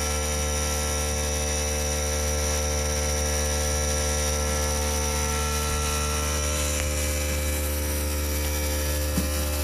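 A steady low mechanical hum or drone, with a small click near the end.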